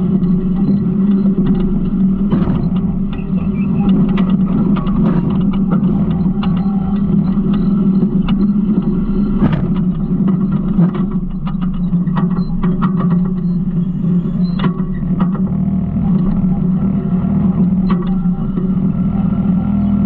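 Garbage truck engine running steadily, with scattered clicks, knocks and rattles over it.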